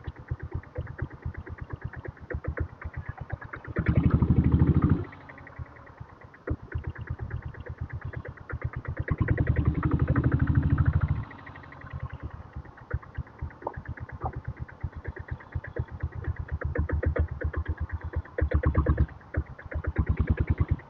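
Diesel Royal Enfield Bullet's single-cylinder engine chugging at low revs with its replaced silencer, the throttle opened in short bursts about four seconds in, again for about two seconds around the middle, and twice near the end.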